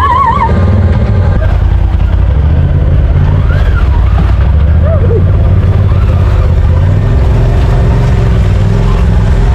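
Side-by-side UTV engine running steadily while driving along the trail, loud and close.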